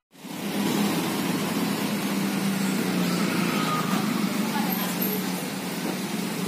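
Steady roadside street ambience: a low, even engine-like hum with traffic noise and indistinct voices in the background.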